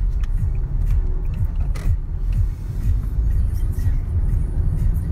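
Low, steady road and engine rumble of a moving car heard from inside the cabin, with a few small clicks and rattles.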